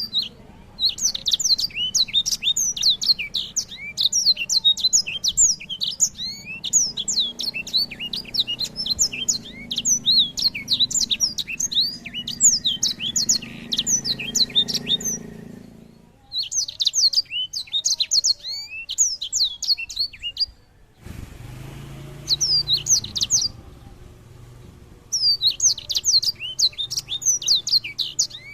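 A songbird singing a fast, continuous run of high chirps and trills in long bouts, breaking off briefly about two thirds of the way through and resuming near the end.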